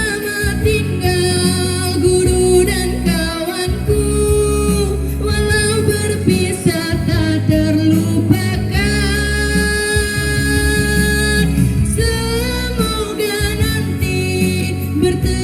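A song: a voice singing a slow melody with long held, wavering notes over instrumental backing with a steady bass.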